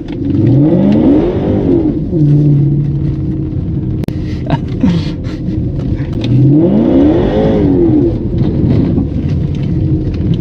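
Range Rover L322's 5.0-litre supercharged AJ133 V8 through its aftermarket Gorilla exhaust, revving up under acceleration and dropping back twice: once near the start and again about six seconds in. In between it holds a steady lower note.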